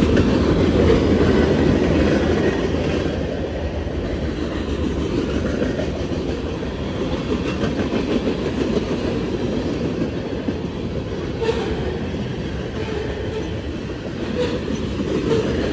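Freight cars of a CSX mixed freight train rolling past in a steady, loud rumble, with a few clacks from the wheels late in the passage.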